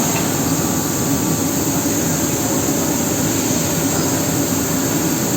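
Fiber laser cutting machine running with compressed air as the assist gas: a steady, unbroken rushing noise.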